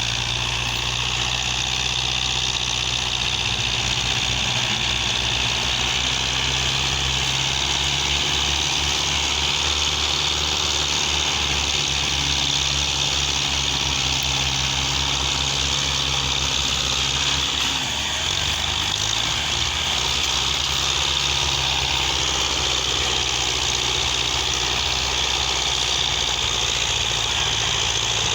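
Tractor engine running steadily at a constant speed, with a brief dip in its note about two-thirds of the way in.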